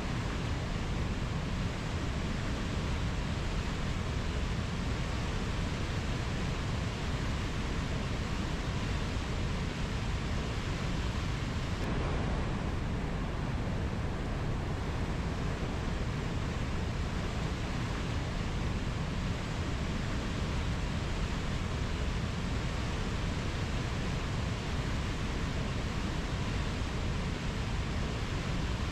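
Steady, even rushing noise from a rainforest nature-sound track, heaviest in the low end, with no birdsong or insect calls standing out. The texture shifts slightly about twelve seconds in.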